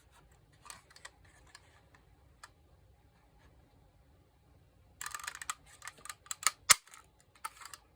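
Fiskars corner punch working on cardstock: light handling clicks, then about five seconds in a run of rustles and clicks as it is pressed, with one sharp snap a little before the end. The punch is sticking.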